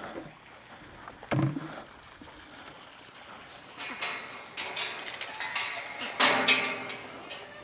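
Ducks quacking: a single quack about a second and a half in, then a run of louder, harsh quacks through the second half.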